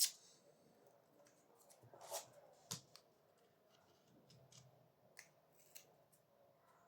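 A few sharp clicks and taps at irregular intervals: one at the very start, two more a couple of seconds in, and fainter ones later, over a quiet background.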